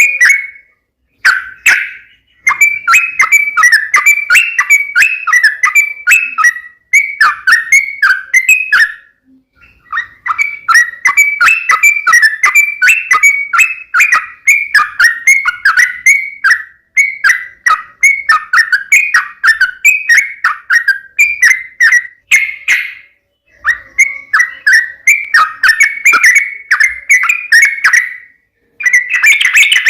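Yellow-vented bulbul singing loudly: fast runs of short chirping notes in phrases a few seconds long, with brief pauses between them.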